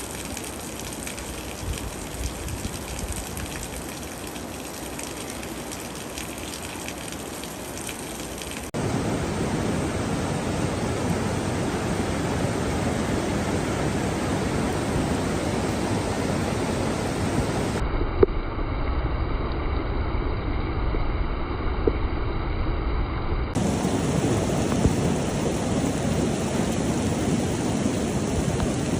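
Steady rushing noise of a storm, heavy rain and running floodwater, in several clips whose sound changes abruptly about 9, 18 and 23 seconds in, with a few brief knocks.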